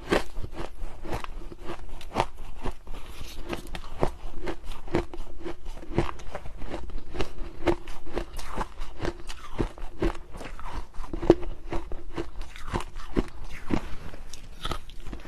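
Close-up crunching of someone chewing powdery freezer frost, with sharp irregular crunches a few times a second.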